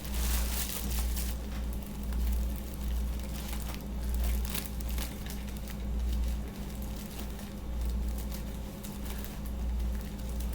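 Steady low hum with faint rustling and light clicks from food and packaging being handled while a sandwich is put together.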